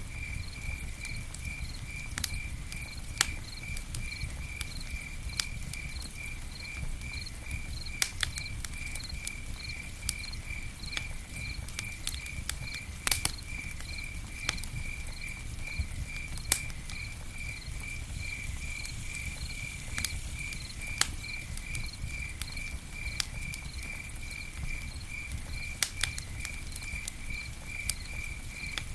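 Campfire crackling, with scattered sharp pops and snaps over a low rumble of the burning. A cricket chirps steadily throughout in an even, high-pitched rhythm.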